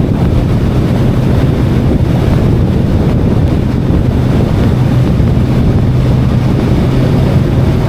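Wind rushing over the microphone with the steady drone of a VOGE 525DSX parallel-twin engine, which holds an even pitch while the motorcycle rides at steady speed.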